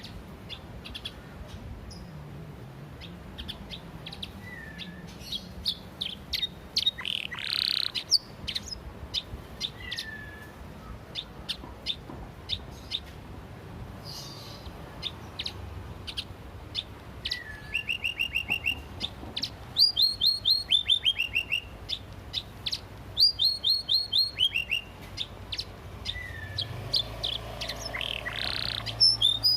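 Domestic canary singing: scattered short chirps and call notes at first, then from about halfway through loud bursts of rapid repeated-note trills, the fast 'machine-gun' style of a song-trained canary.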